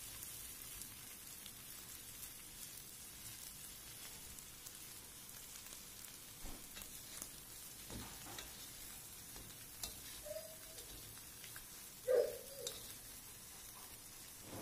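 Prawns frying in butter in a wok, a steady sizzle with a few knocks and clatters of the spatula as they are stirred. About twelve seconds in, a short, loud voice-like sound rises above the sizzle.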